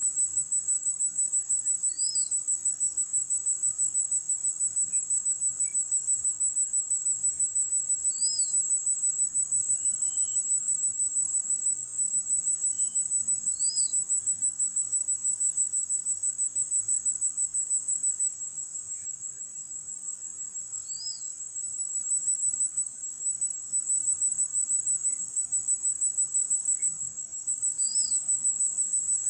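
Shrill insect trilling in a high, rapidly pulsing drone that runs on with a brief dip in loudness a little past the middle. A short high chirp sounds over it about every six seconds.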